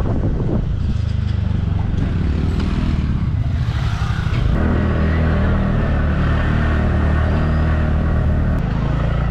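Motor scooter engine running while riding, with road and traffic noise. Its note settles into a steadier, stronger drone about halfway through.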